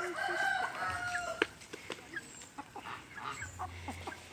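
Chickens calling: a drawn-out, crow-like call in the first second, then softer clucks and scattered short clicks.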